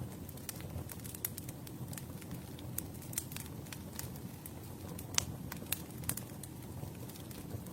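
Campfire burning: a steady low rumble of flames with frequent irregular crackles and pops, one louder pop about five seconds in.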